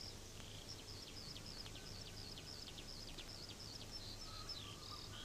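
Faint birdsong: a small bird giving a quick, steady run of short high chirps, over a low steady hum.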